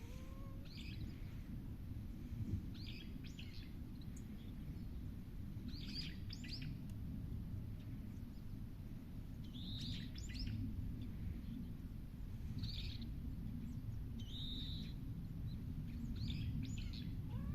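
Wild birds chirping: short high calls every couple of seconds, over a steady low background rumble.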